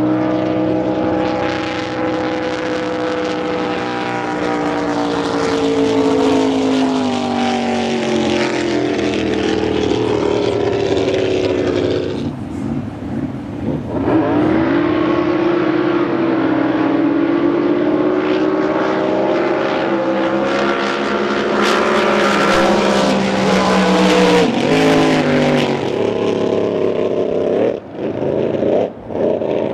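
A racing boat's engine running at low speed. Its pitch falls slowly for about twelve seconds, drops out briefly, then comes back steadier before falling away again near the end.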